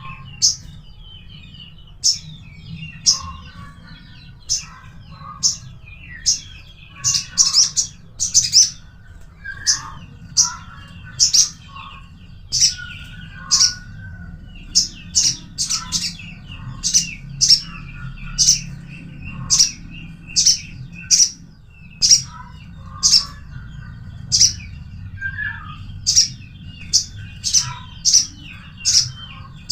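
Sogon (sogok ontong) sunbird calling: sharp, high chirps about once a second, with softer twittering between them.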